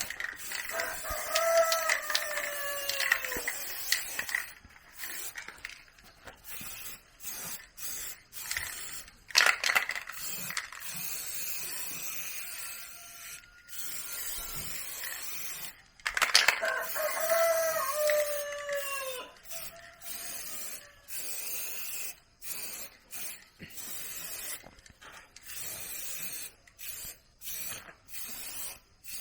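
A rooster crowing twice, each crow lasting a few seconds and falling in pitch at the end, about a second in and again about sixteen seconds in. Scattered clicks and knocks come between the crows.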